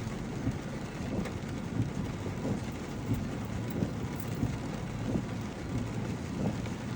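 Steady low rumble of a vehicle driving slowly, heard from inside the cab, with small irregular bumps.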